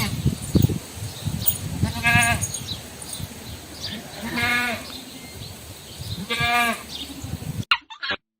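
Livestock bleating: a call about every two seconds, four in all, each about half a second long. The sound cuts off abruptly near the end.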